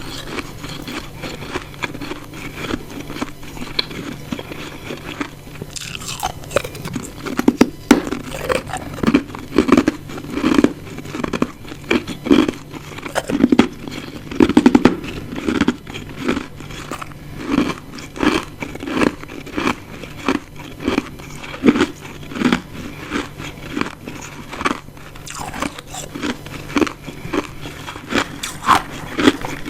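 Close-miked biting and chewing of ice chunks, with crisp crackling crunches. The crunches grow louder after about six seconds, at roughly one a second.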